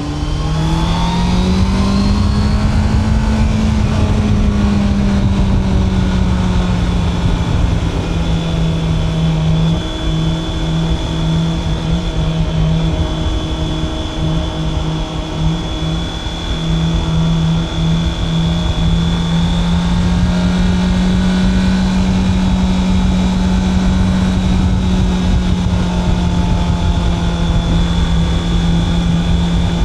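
Honda CB650R's inline-four engine under way. Its note rises over the first few seconds as the bike accelerates, then holds nearly steady at cruising revs, over a constant rush of wind and road noise.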